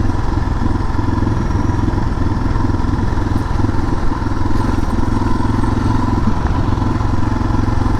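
Suzuki DR650's single-cylinder four-stroke engine running at a steady pace while the bike is ridden, the engine note holding even.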